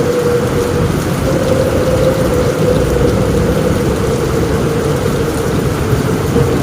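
Steady heavy rain on a roof with a continuous low rumble underneath, and a steady mid-pitched whine that holds throughout.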